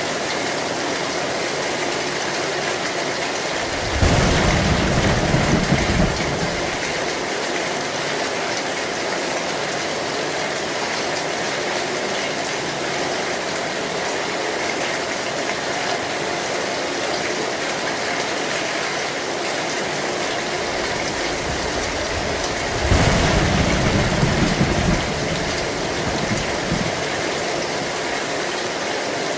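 Heavy rain drumming steadily on an old zinc metal roof, with two low rolls of thunder about twenty seconds apart, each lasting about two seconds.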